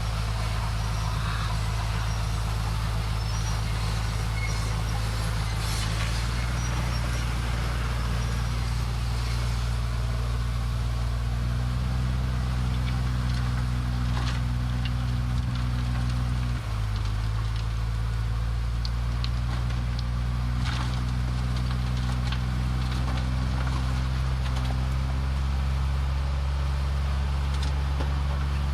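Heavy earthmoving machine's diesel engine running steadily. Its note steps up about six seconds in and again about twelve seconds in, and dips briefly a little past sixteen seconds. A few faint clanks sound over it.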